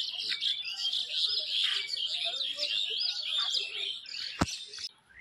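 A dense chorus of small birds chirping, many short, high calls overlapping. There is one sharp click about four seconds in, and the chirping cuts off suddenly just before the end.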